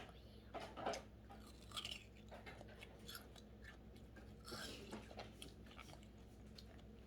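Faint chewing and mouth sounds of a child eating ice cream, a few soft smacks and clicks, over a low steady room hum.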